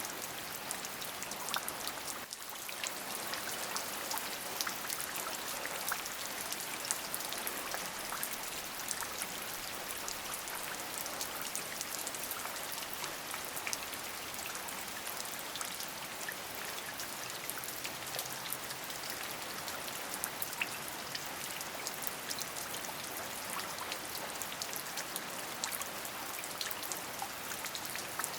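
Steady rain falling, an even hiss dotted with many small sharp drop impacts.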